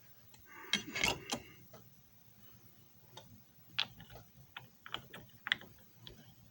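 Scattered sharp plastic clicks and knocks from handling a JFJ Easy Pro disc repair machine, with a quick cluster of them about a second in and single clicks after. The machine's motor is not running.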